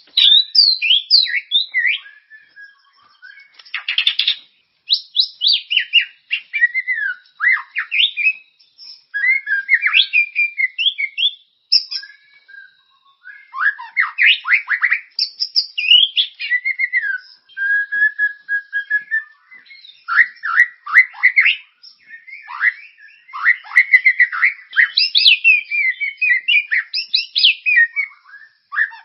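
Recorded songbird song used as a tutor song for white-rumped shamas. It is a dense run of varied whistles, chirps and quick falling notes, phrase after phrase with short pauses between.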